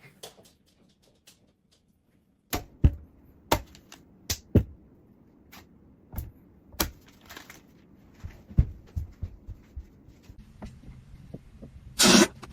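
Irregular sharp clicks and knocks, a few a second at most, with a louder hit near the end.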